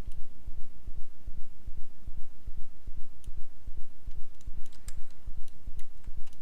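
A low, even thumping several times a second, with a few light computer mouse clicks between about three and six seconds in.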